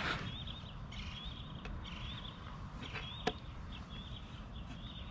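A bird calling over and over in the background, short wavering high chirps repeated every half second or so, with a sharp click about three seconds in.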